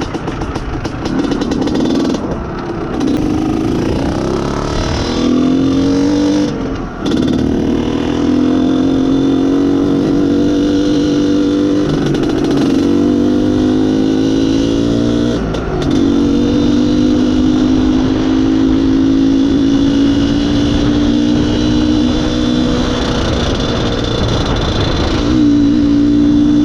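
IZh Planeta Sport's single-cylinder two-stroke engine accelerating under load, its pitch climbing in each gear and dropping at upshifts about 7, 16 and 25 seconds in. The rider feels the mixture running very lean at the top of the rev range, on a 1.3 main jet.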